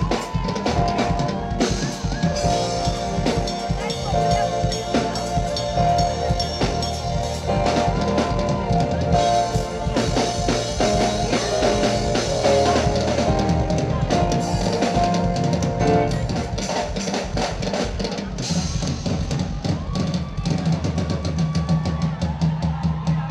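Live drum kit solo: fast, dense hits on snare and bass drum, with held notes from the rest of the band underneath. The drumming thins out near the end.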